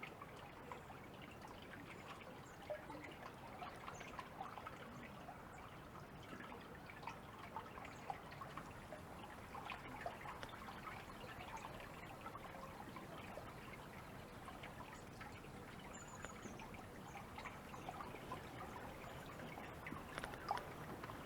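Faint river water trickling and dripping close by, a continuous patter of small splashes.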